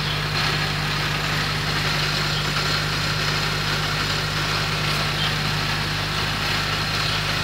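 Chevy car engine idling steadily with its radiator cap off, a steady low hum; the owner takes the engine to have a blown or leaky head gasket.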